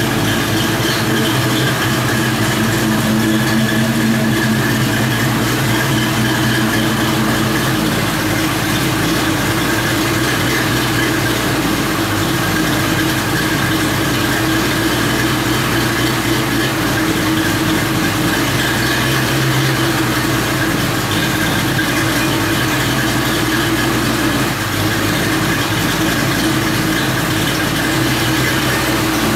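Built two-valve Ford modular V8 with Stage 3 heads and Comp Cams camshafts, idling steadily through FRPP headers and Flowmaster 50 Series mufflers.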